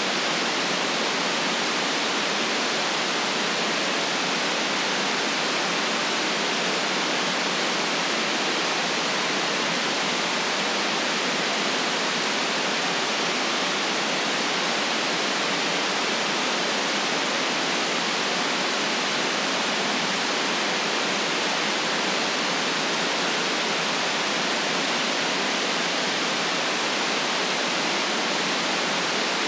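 Steady electronic white noise: an even, unchanging hiss with no low end, played continuously as a relaxation sound.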